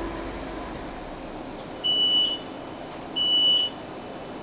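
Class 458 train's door warning beeps at a station stop: two identical high-pitched beeps of about half a second, roughly a second and a half apart, over a quiet cabin hum. They signal that the doors are being released or opened.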